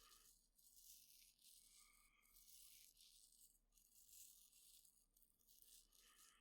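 Faint fingernail scratching and rubbing on the microphone, made as ASMR head-scratch sounds, in repeated soft strokes.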